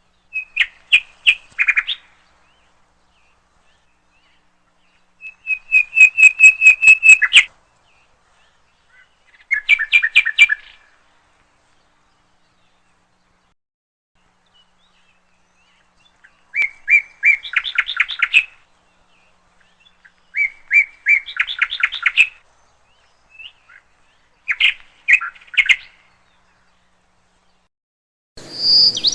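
A songbird singing in short phrases, each a rapid series of repeated chirping notes, with silent gaps of a few seconds between phrases.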